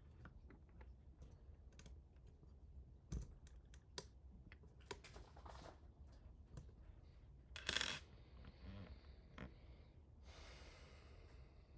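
Faint, scattered clicks and taps of small hard parts being handled, with one louder, short scraping burst about two-thirds of the way through.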